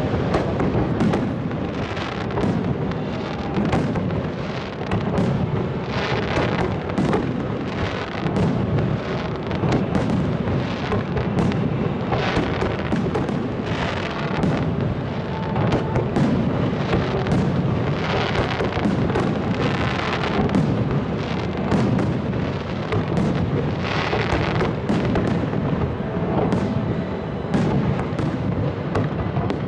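Large fireworks display in a continuous barrage: many bangs in quick succession merge into a rolling rumble. Higher hissing crackle flares up every few seconds.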